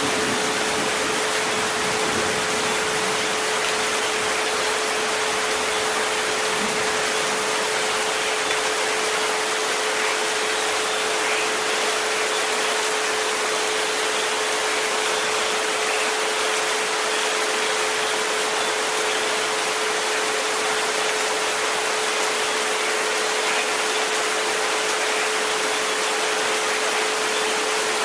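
Steady, even rain noise with a continuous pure sine tone held at one pitch, a 432 Hz relaxation-frequency tone, running under it.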